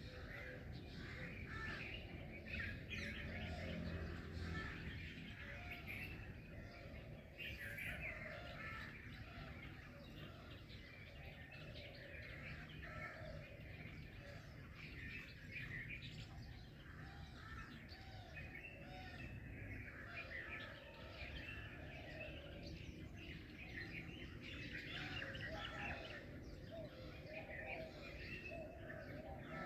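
Morning bird chorus: many songbirds chirping and singing at once, overlapping calls without pause, over a steady low background rumble.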